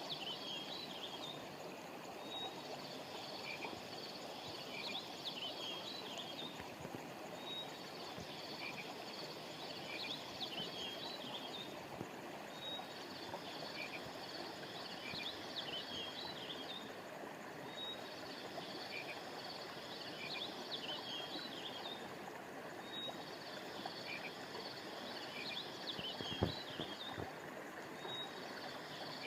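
A stream flowing steadily, with high chirping and trilling animal calls over it that repeat in the same pattern about every five seconds, like a looped nature recording. A single short knock sounds near the end.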